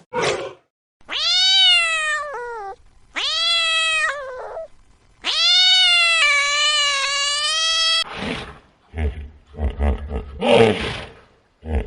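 Three long, pitched, meow-like animal calls, each sliding up at the start and then falling; the third is held about three seconds. About eight seconds in, the calls give way to a run of short, rough, grunting bursts with a low pulsing underneath.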